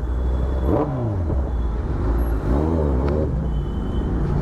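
Motorcycle engine running on the move, its pitch dropping about a second in, then a quick rev up and back down around three seconds in.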